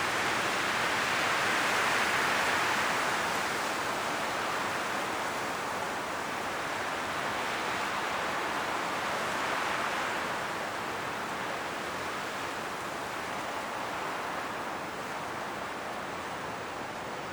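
Strong wind blowing through forest trees, rustling the autumn leaves in a steady rush that swells and eases in slow gusts.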